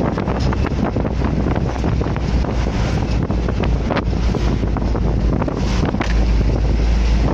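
Heavy wind buffeting the microphone over a steady low rumble, which grows stronger about six seconds in.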